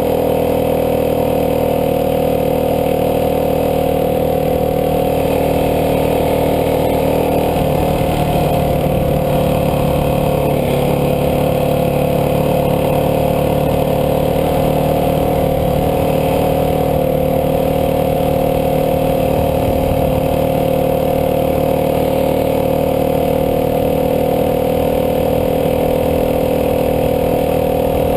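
Dirt bike engine running at fairly steady revs, its pitch holding level with only slight wavers.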